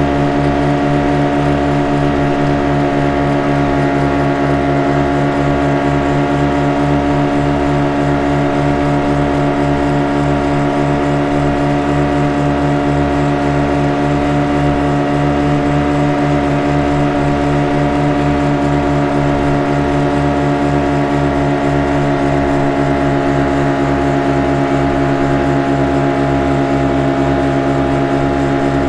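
Motorboat engine running steadily at constant speed: an even drone that holds one pitch throughout, with a fast low throb underneath.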